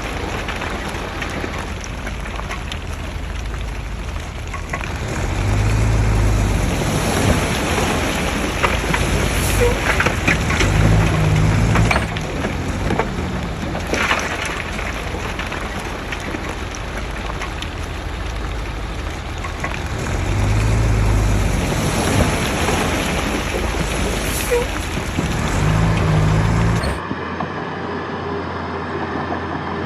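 Heavy diesel earthmoving machinery working loose soil: a steady engine drone under a gritty crackling rush, with the engine swelling louder four times for a second or two each. Near the end the sound changes abruptly to a duller, steadier engine drone.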